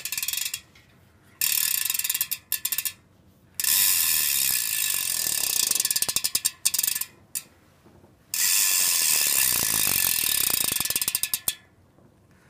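A new BMX wheel's hub ratcheting as the wheel is spun by hand, a rapid buzz of pawl clicks that slows toward the end of each spin, four spins in all, the last two the longest.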